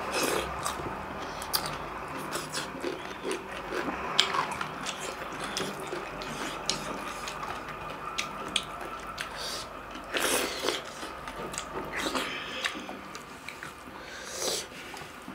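Close-up eating sounds of people eating millet dhido and chicken curry by hand: wet chewing, lip smacks and sticky mouth clicks, with a few louder smacking bursts in the second half.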